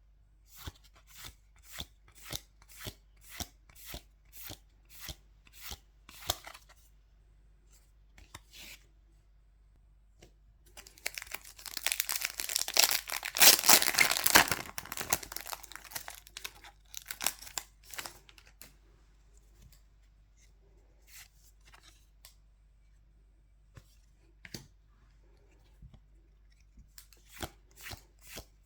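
A Pokémon trading-card booster pack's foil wrapper is torn open with a loud crinkling rip lasting several seconds, about halfway through. Before and after it, trading cards are slid off the stack one by one, about two crisp card clicks a second.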